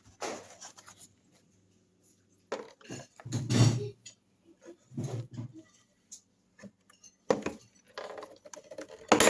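Kitchen utensils and dishes clinking and knocking in several short bursts, with a duller thud about three and a half seconds in, as a filled taco is handled and folded.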